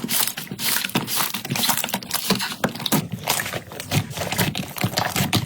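Slime being handled, pressed and poked, giving a dense, uneven run of small crackling clicks and pops.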